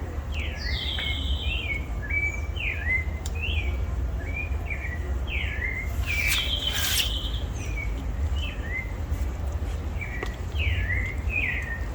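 Songbirds chirping repeatedly in short notes that sweep up and down in pitch, with one louder call about six seconds in. A steady low rumble runs underneath.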